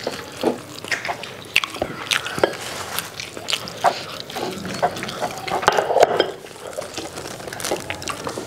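Eating sounds from several people chewing biryani rice and fried chicken with their mouths open: wet smacking, squelching and irregular clicking mouth noises throughout.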